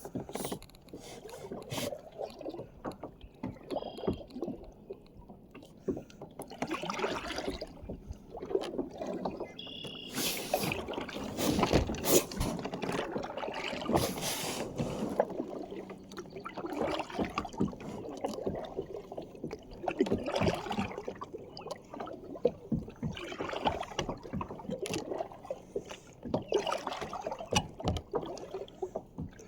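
Water splashing and sloshing around a kayak on the water, in irregular surges every one to three seconds.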